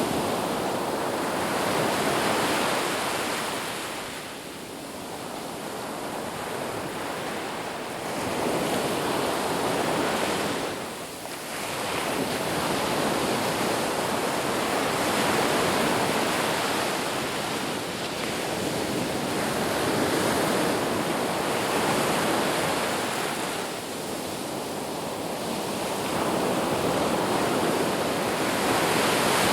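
Sea waves breaking and washing on a shore: a steady rush of surf that swells and falls back in slow surges every few seconds.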